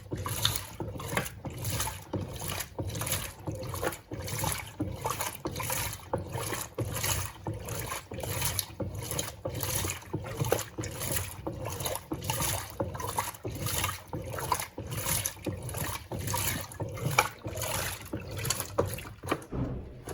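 Electrolux Turbo Compacta top-loading washing machine agitating its load in water during the wash cycle, a rhythmic sloshing and swishing about twice a second as the agitator churns the clothes back and forth.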